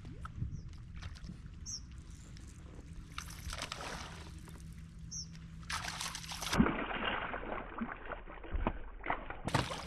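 Water sloshing and splashing around a kayak, with knocks and rustles on the hull and a few short bird chirps.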